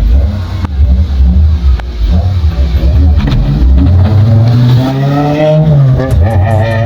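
Toyota Celica GT-S's 2ZZ-GE four-cylinder engine revving: it runs unevenly at lower revs, then climbs steadily in pitch for about two seconds and drops back near the end.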